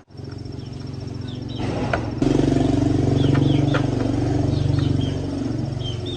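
A small engine running steadily, stepping up louder about two seconds in, with birds chirping over it.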